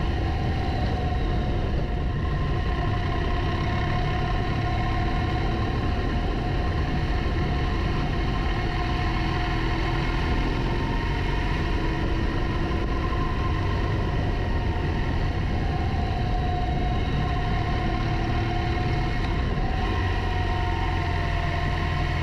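Motorcycle engine running under way, heard with heavy low wind and road rumble; its tones drift gently up and down as the engine speed changes.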